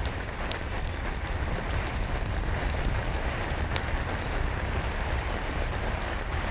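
Steady rain falling, with a low rumble underneath and a few sharp crackles from a wood fire in a fireplace.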